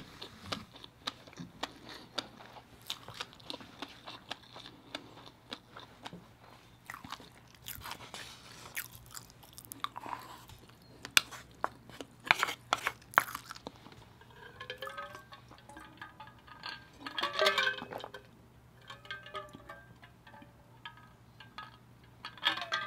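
Mouth sounds of a person eating rice mixed with fish-egg sauce: irregular chewing clicks and smacks, with a wooden spoon knocking against a wooden bowl.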